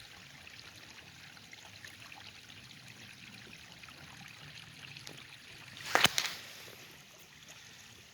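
Stream water running and trickling steadily, with a brief loud burst of noise about six seconds in.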